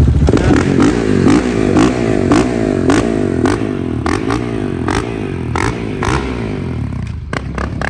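Sport motorcycle engine revving on a dyno, its pitch swinging up and down about twice a second with sharp clicks along with it, then dropping away near the end.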